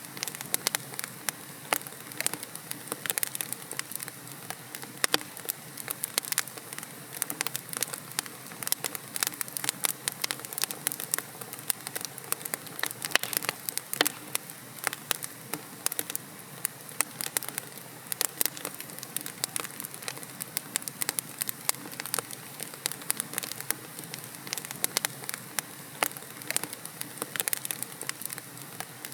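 Wood logs burning in a fireplace, crackling and popping with many irregular sharp snaps over a steady hiss of the fire.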